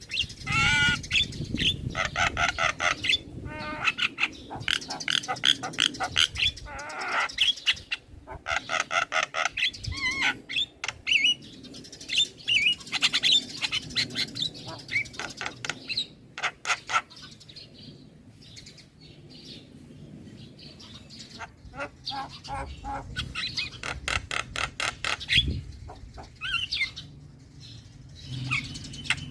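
Young male Javan myna singing: fast runs of rattling, chattering notes mixed with short sliding whistles, with a quieter lull in the middle.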